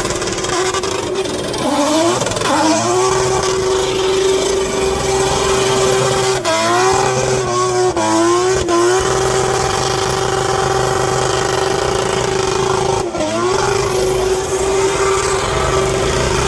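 Racing car engine held at steady high revs, with quick throttle blips and dips in pitch a few times: about two seconds in, several between six and nine seconds, and once near thirteen seconds.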